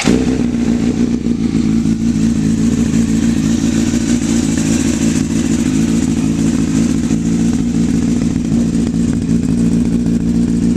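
2007 Honda CBR1000RR inline-four engine catching at the start and then idling steadily through a Micron slip-on exhaust, at an even pitch without revs.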